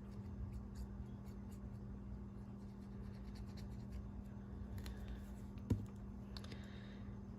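Faint scratching and rustling of paper pieces being handled and pressed down, with scattered small ticks and one sharp tap about two-thirds of the way through.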